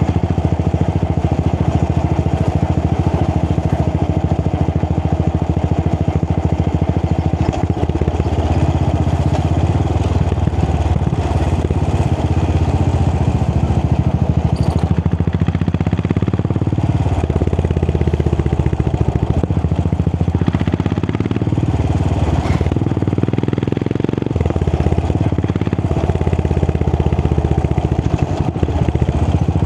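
Royal Enfield Continental GT 535's 535cc single-cylinder engine running through an aftermarket AEW exhaust while being ridden, a steady loud thump whose note shifts with the throttle in the second half.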